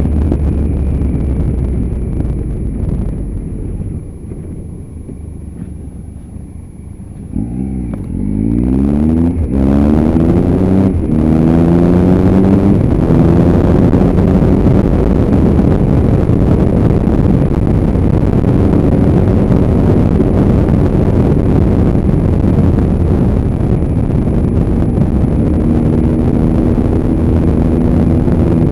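Motorcycle engine heard while riding, with wind rushing over the microphone. It quietens for a few seconds, then accelerates with the engine note rising in pitch through two gears, about seven to thirteen seconds in. After that it settles into steady cruising.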